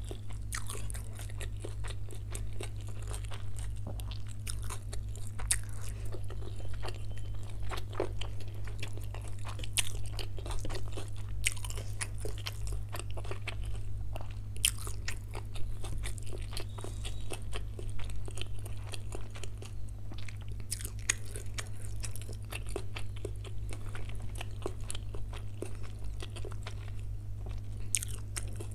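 Close-miked mouth sounds of eating chilli chicken and chow mein noodles: chewing with many sharp, crackly clicks scattered throughout. A steady low hum runs underneath.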